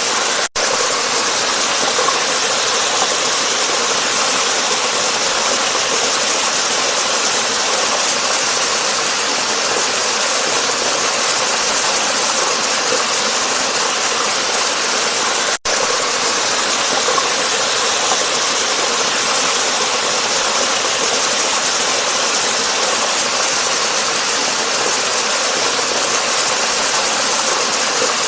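Waterfall: a steady, loud rush of falling water, with two momentary dropouts, one about half a second in and one about fifteen seconds in.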